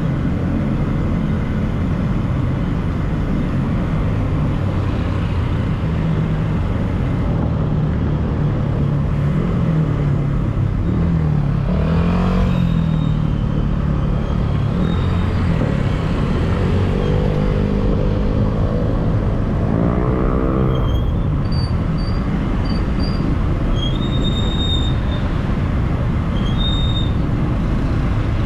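Steady city street traffic heard from a moving bicycle: a constant low rumble of engines and road noise, with a vehicle's engine note wavering about a third of the way in and a rising engine note about two-thirds of the way. A few short high chirps come near the end.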